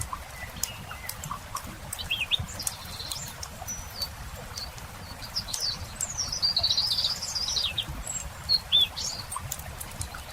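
A songbird singing short chirping and warbling phrases, busiest about six to eight seconds in, over the scattered crackle of a wood campfire.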